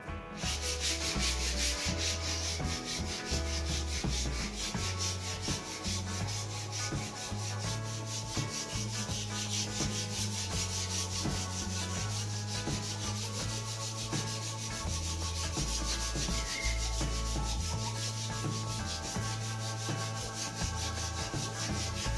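Sandpaper rubbing steadily along a new wooden snooker cue shaft, a continuous dry scratching over a low steady hum.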